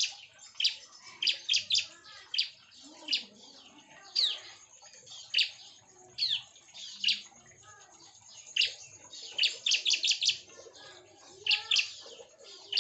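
Bar-winged prinias (ciblek) giving many short, sharp, high chirps in irregular clusters, some as quick downward-sweeping notes.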